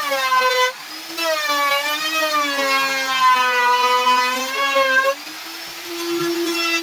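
Homemade table saw's motor whining as the blade cuts wood, its pitch sagging under the load and recovering, with a short break under a second in. About five seconds in the load comes off and it spins freely at a steady, higher pitch.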